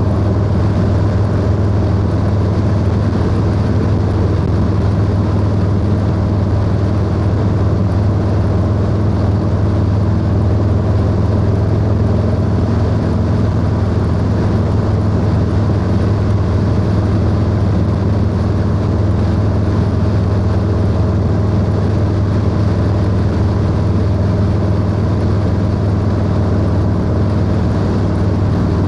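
Harley-Davidson Low Rider S V-twin engine through a 2-into-1 exhaust, cruising at a steady speed with an even engine note and no revving.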